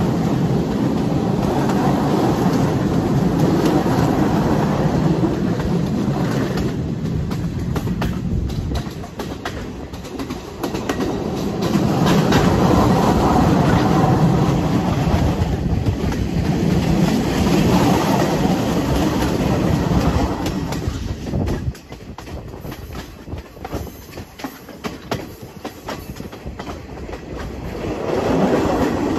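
Passenger train running along the track, heard from an open carriage window: a steady rumble of the wheels with the clickety-clack of rail joints. The rumble drops away for a few seconds about two-thirds of the way in, leaving the clicks clearer, then swells again near the end.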